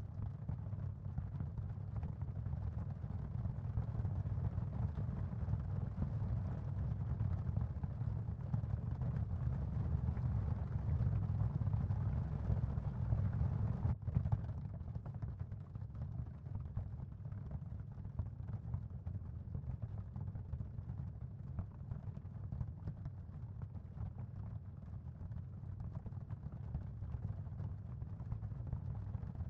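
Steady, deep ambient noise bed of a tinnitus-masking sound field, mostly low rumble with a faint hiss above it. About halfway through it becomes slightly quieter and less hissy.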